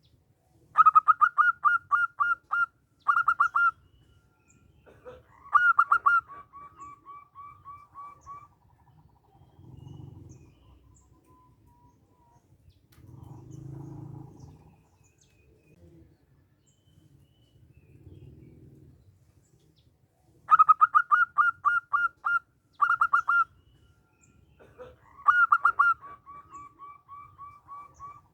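Zebra dove singing its staccato cooing song twice: each phrase opens with a quick run of loud, sharp notes and trails off in a longer string of softer, evenly spaced notes.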